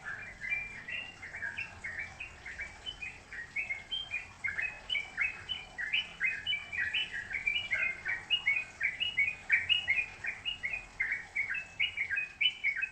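A songbird singing a fast, continuous run of short chirping notes, about four or five a second.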